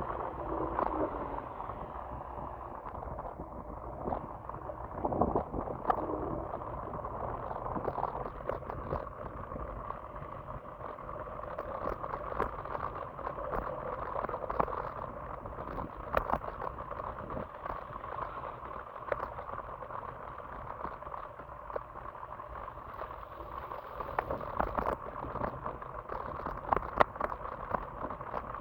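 Electric scooter riding on a wet road: a steady rushing, gurgling wash of water noise from the tyres, with scattered knocks and rattles throughout.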